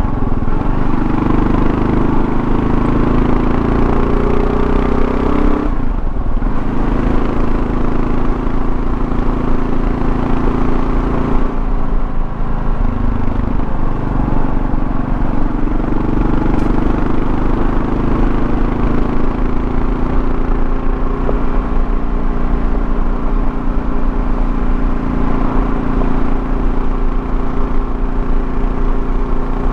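Kawasaki KLR650's single-cylinder engine pulling under way, with wind and road noise. The engine note rises for the first few seconds, drops off briefly about six seconds in and again around twelve seconds, then holds steady.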